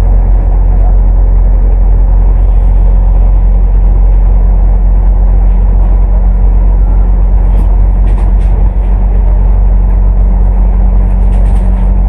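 Cummins ISL8.9 diesel engine and drivetrain of an ADL Enviro500 MMC double-decker bus running at a steady speed, heard as a loud, even low drone, with a few light rattles.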